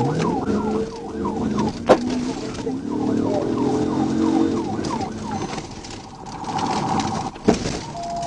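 Police car siren in yelp mode, about three quick rising-and-falling sweeps a second, switching about five and a half seconds in to a steadier, rapidly warbling tone. The pursuing car's engine runs underneath, and two sharp clicks cut through, near two seconds and seven and a half seconds in.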